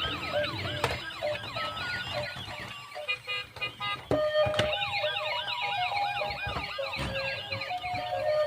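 Electronic sound chip of a toy police car playing siren effects: several overlapping electronic sirens wailing quickly up and down over a simple beeping tune, with a few sharp clicks or knocks.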